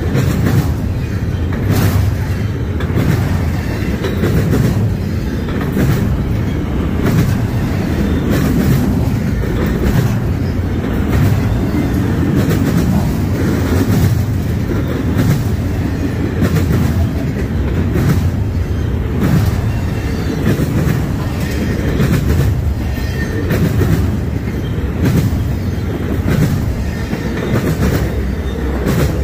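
Freight train cars rolling past with a steady low rumble, their wheels clicking over rail joints in a repeating rhythm.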